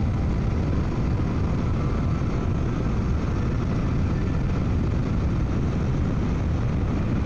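Suzuki V-Strom 800DE's parallel-twin engine running steadily under way, a constant low rumble heard from a microphone inside the rider's helmet.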